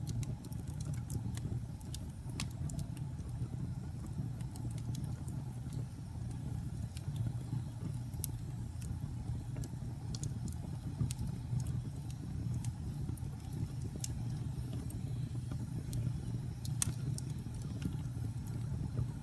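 Wood fire crackling: scattered sharp pops and snaps over a steady low rumble, with one louder pop near the end.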